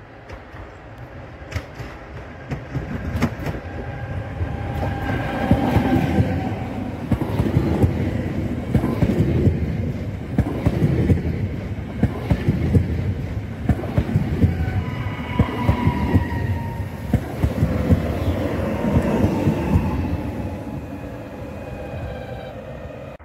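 PKP Intercity ED161 (Pesa Dart) electric multiple unit passing close by, growing louder over the first few seconds. Its wheels clatter rapidly over rail joints and points, with short whining tones coming and going, and the sound dies away near the end.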